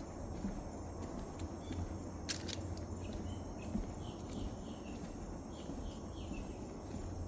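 Outdoor wetland ambience: a steady high-pitched insect chorus, with footsteps on a path and a few short descending bird chirps in the middle stretch. One sharp click a little over two seconds in.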